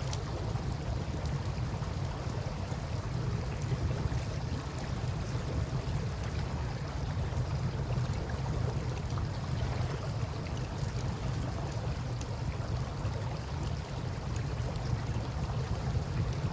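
Steady rushing of river water, with faint scattered crackles from a wood campfire.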